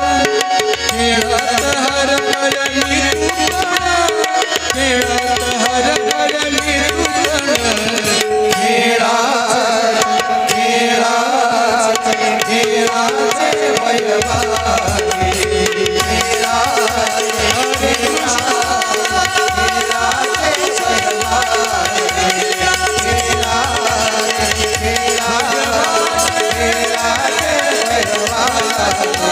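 Tabla-led devotional bhajan music without words: a steady tabla rhythm under held melody notes.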